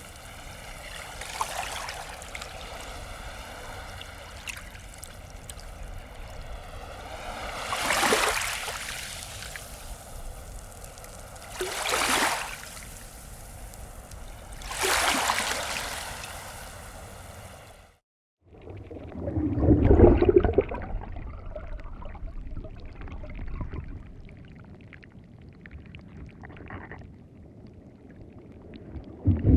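Sea waves washing in on a beach, a wave swelling and falling back every three to four seconds. About two-thirds of the way through the sound cuts to a duller, muffled rush of water, strongest just after the cut.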